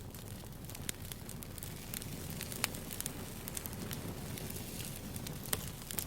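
Campfire crackling: burning wood gives a steady low rush full of frequent sharp pops and snaps, with a louder pop about two and a half seconds in and another near the end.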